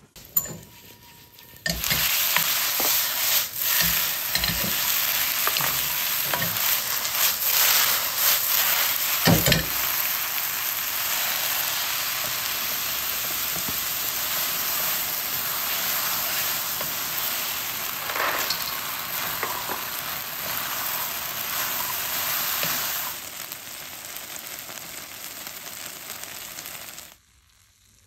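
Chicken stir-frying in a tri-ply non-stick wok: a loud, steady sizzle starting about two seconds in, with a few knocks from the wooden spatula in the first ten seconds. The sizzle drops lower a few seconds before the end and then cuts off.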